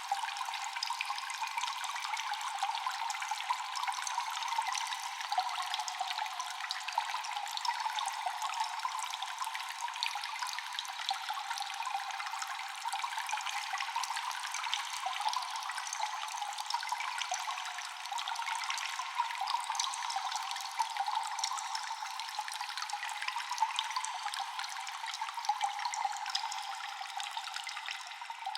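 Constant dripping water echoing in a cave: many small drops falling one after another over a steady wash of running water.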